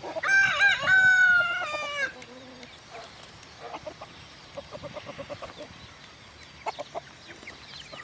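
A rooster crows once, loudly, for about two seconds at the start, followed by quieter clucking from chickens.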